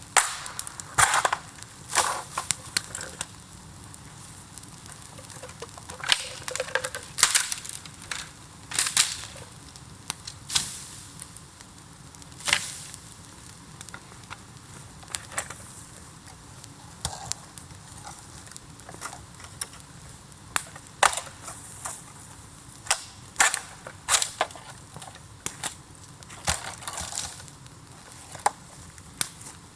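A bamboo bonfire crackling, with sharp pops at irregular intervals, some in quick clusters, as sealed bamboo sections burst in the heat.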